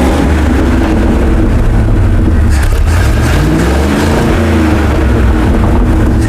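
Old 1974 Chevy grain truck's gasoline engine catching and running unevenly on fuel squirted by hand into the carburetor, its revs rising and falling near the middle, as it struggles to keep running with the idle not set right.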